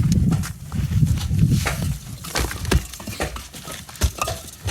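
A low rumbling noise, then a run of sharp knocks and clatters from about two seconds in: part of an old house being knocked down by hand, with debris falling.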